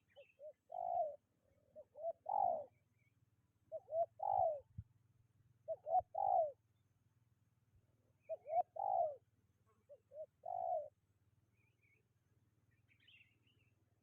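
Spotted dove cooing: six phrases about two seconds apart, each one or two short notes followed by a longer, falling coo.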